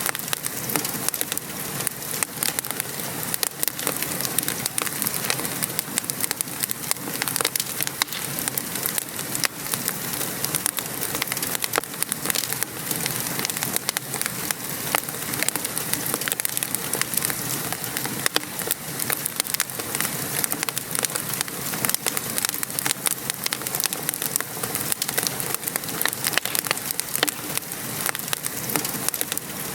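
Steady patter of rain mixed with a wood fire crackling, a dense run of small sharp pops and snaps over an even hiss.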